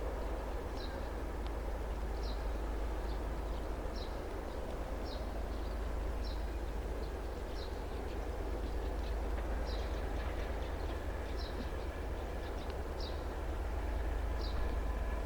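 A steady low rumble, with a bird repeating a short high chirp about once a second.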